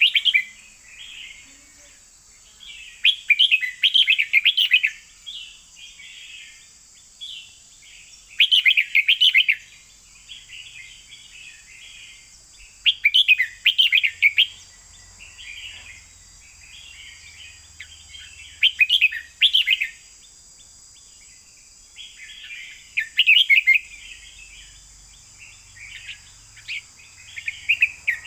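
Red-whiskered bulbul singing: loud, quick song phrases about every four to five seconds, with softer chattering between them. A steady high hiss runs underneath.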